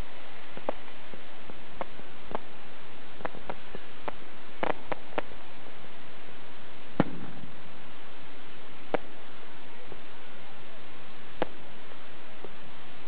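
A large batch of fireworks going off at once as it dies down: scattered bangs and pops, about a dozen, irregularly spaced, with the loudest about seven seconds in, over a steady hiss.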